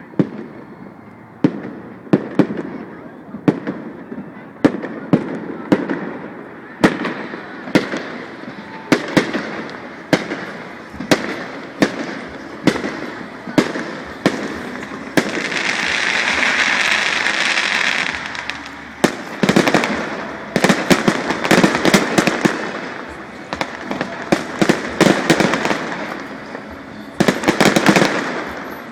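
Fireworks display: aerial shells bursting about once a second. About halfway through, a hissing crackle lasts a few seconds, then come quick volleys of many bursts.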